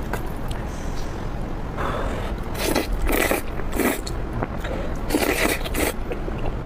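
Close-miked eating sounds of spicy Korean fire noodles (buldak): about half a dozen short, noisy mouth sounds of eating.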